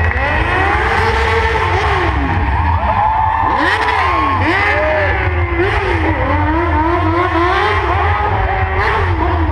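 Several motorcycle engines revving up and down over and over, their pitches overlapping.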